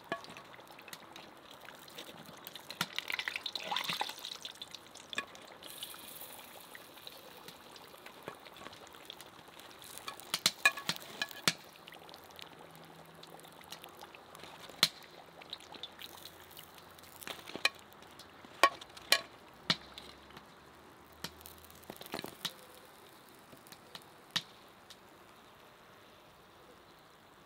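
Food frying in hot oil: a steady faint sizzle with scattered sharp pops and clicks, and a louder stretch of sizzling about three to four seconds in.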